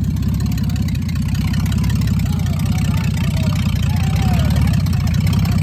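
Car engine idling with a steady, low, fast-pulsing exhaust note.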